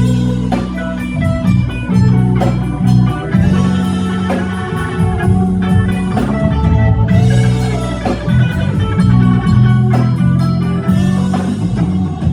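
Live blues band playing an instrumental passage: guitar over a strong bass line and drum kit, with the drums keeping a steady beat.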